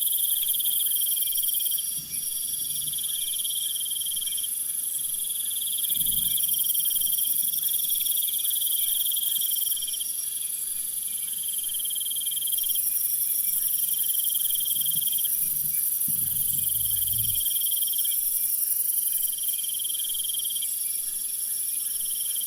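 Insects chirring: a steady high-pitched chorus with overlapping pulsed trills that each last a second or two and repeat without pause.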